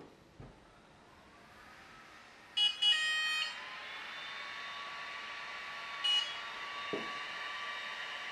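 Tria Precision laser hair remover beeping: a double beep about two and a half seconds in and a single beep about six seconds in, over a rising electronic whine that settles into a steady tone. A couple of soft knocks from handling the device.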